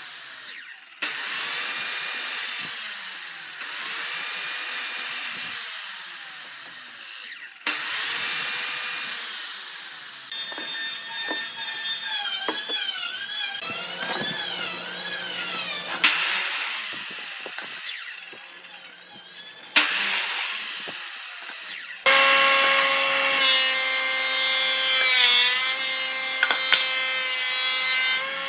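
Power tools working wood in a series of short clips, each cut off abruptly: stretches of steady hiss from cutting or sanding alternate with a motor's whine that rises and falls as it is loaded.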